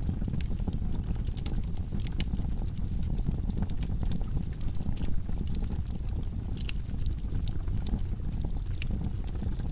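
Log fire burning in a fireplace: a steady low rumble of the flames with frequent small, sharp crackles and pops scattered throughout.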